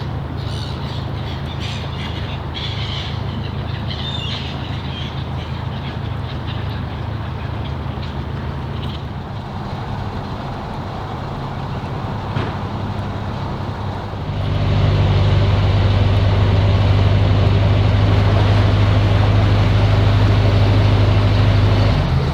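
Narrowboat diesel engine running steadily at low revs, then throttled up about two-thirds of the way through and running louder until just before the end.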